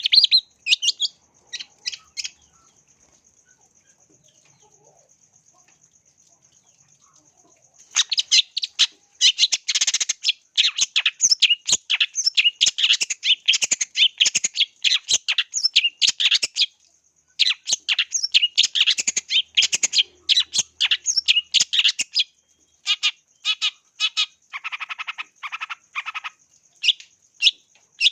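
Long-tailed shrike (cendet) singing: a few short calls, a pause of about five seconds, then a long fast run of quick notes with brief breaks. A thin steady high tone runs under the song.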